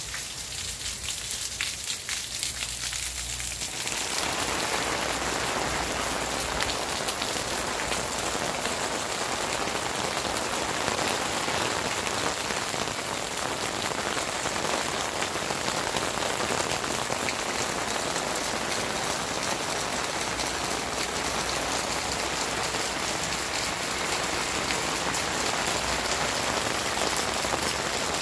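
Heavy rain, with runoff pouring off the roof edge and splashing: a dense, steady hiss that fills out over the first few seconds and then holds.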